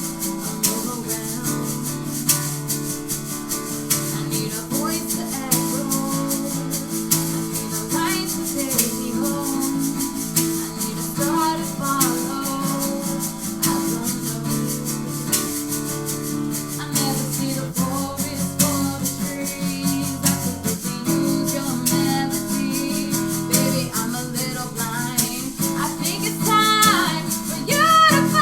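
Acoustic guitar playing the accompaniment of a pop ballad, with a steady shaker-like rattle on the beat and a few short sung vocal runs, most clearly near the end.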